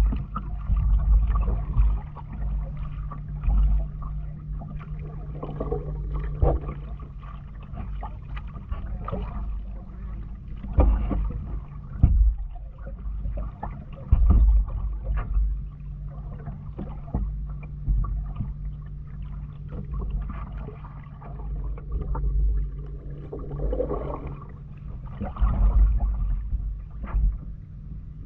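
Paddling a kayak on open water: irregular splashes and knocks of the paddle and hull, over uneven low rumbling and a steady low hum.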